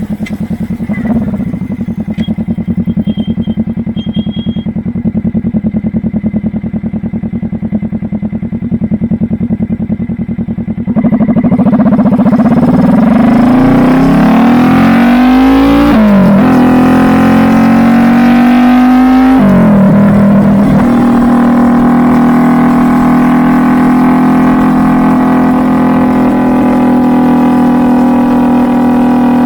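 Kawasaki Vulcan S 650's parallel-twin engine through an aftermarket Truedual Valero twin-pipe exhaust, running steadily, then growing suddenly louder about a third of the way in. It revs up through two gear changes, with the pitch dropping at each shift, and then holds a steady highway cruise.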